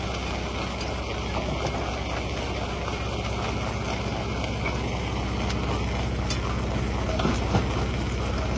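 Rock crusher running with a steady low machine hum, with a few short knocks, the loudest near the end.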